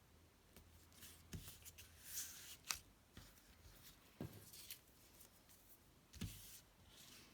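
Paper being handled at a worktable: short rustles and slides of paper with light taps, three soft knocks on the table and one sharp click about two and a half seconds in.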